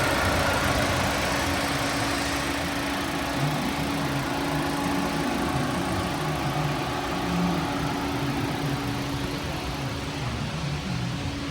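Mitsubishi Outlander engine idling steadily, with a constant low hum.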